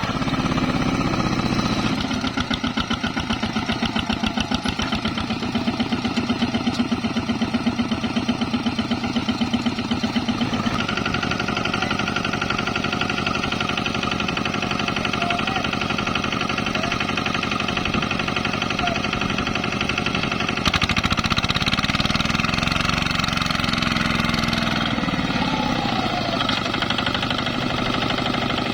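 Single-cylinder Kubota ZT155 diesel of a two-wheel walking tractor chugging with a fast, even firing beat. Its engine speed shifts a few times: about 2 and 11 seconds in, then it dips and rises again between about 21 and 25 seconds.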